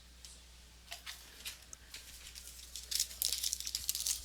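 Trading-card packs and cards being handled: a few light clicks, then dense crinkling and rustling of pack wrappers from about three seconds in.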